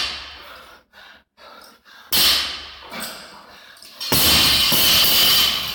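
Hard, heavy breathing from an exercising athlete: three loud, rough breaths, the last about a second and a half long.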